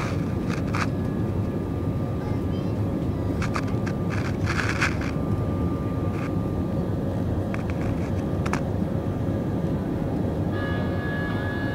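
Airbus A319 cabin noise during takeoff: a steady, loud rumble from the jet engines and airflow, with scattered clicks and rattles from the cabin fittings. Near the end, a steady higher whine joins in.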